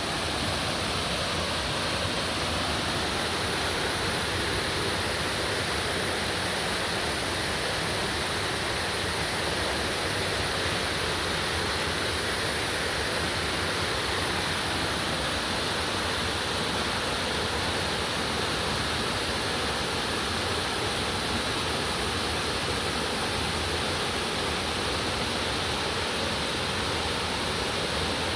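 Waterfall rushing steadily: a dense, unchanging sound of falling water.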